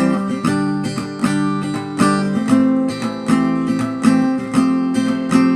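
Background music: an acoustic guitar strumming chords in a steady rhythm, without vocals.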